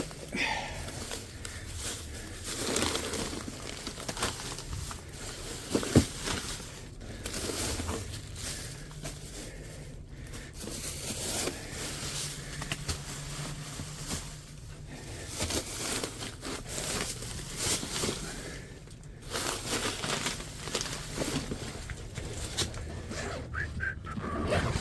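Rustling and crinkling handling noise, with a single sharp knock about six seconds in.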